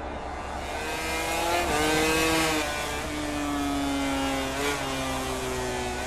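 MotoGP racing motorcycles' 1000 cc four-cylinder four-stroke engines running at high revs, the pitch holding then stepping and gliding at gear changes several times.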